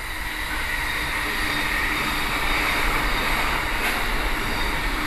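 Keisei electric train running on the rails: a steady rumble and rail noise that grows slightly louder over the first few seconds.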